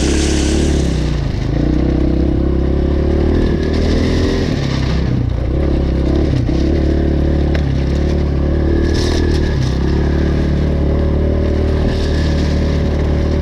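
Dirt bike engine running at low speed over rough ground, the throttle opened and eased off every second or two.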